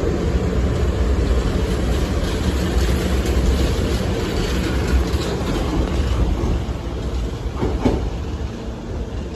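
Hankyu 5300 series electric train pulling out of the station, a steady rumble of wheels on rails. There is a brief sharp sound about eight seconds in, and the rumble drops in level near the end.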